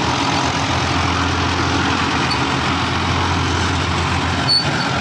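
Farmtrac 60 EPI tractor engine running steadily under load while driving a nine-foot super seeder through the soil, with the mounted rotary seeder churning along with it. A short sharp tick comes about four and a half seconds in.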